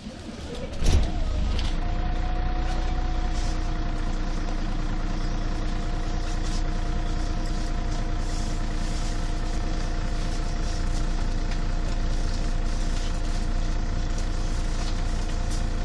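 Scania CN113CLL city bus's diesel engine (Scania DSC 11) idling steadily, heard from inside the bus, with a steady whine over a heavy low rumble. It sounds muffled and bass-heavy because the phone's microphone is partly covered. A loud knock comes about a second in.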